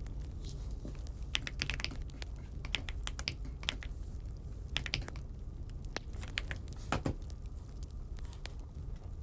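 Typing on an Aula F75 mechanical keyboard: irregular runs of key clicks with short pauses between them, over a low steady hum.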